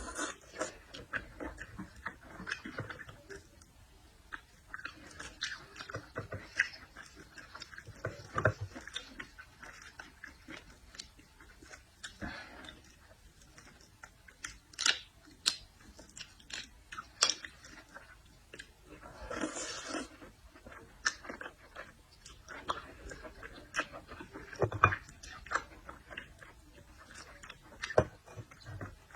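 A person eating seafood: chewing and mouth smacks, with many irregular short, sharp clicks and a longer noisy sound about two-thirds of the way in.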